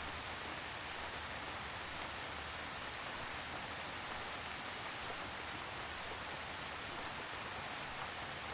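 Steady gentle rain falling on a surface, an even hiss with faint scattered drop ticks.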